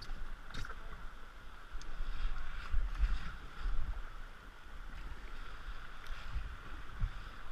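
Rushing river water with irregular paddle strokes splashing as a raft crew paddles forward. A low rumble of wind buffets the microphone and grows louder for a couple of seconds near the middle.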